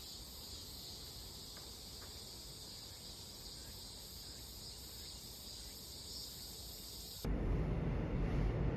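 Steady, high-pitched chorus of summer insects. About seven seconds in it cuts abruptly to a much louder low rumble.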